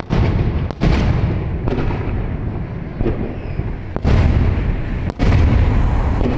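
Aerial fireworks shells bursting overhead: a string of loud booms, several in quick succession, each trailing off in a deep rumble.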